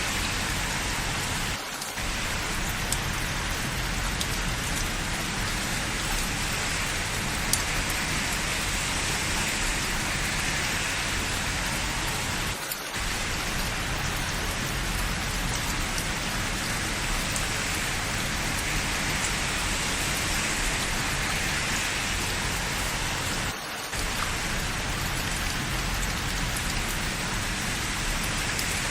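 Steady rain falling, an even hiss with no let-up, dipping briefly in level three times, about every eleven seconds.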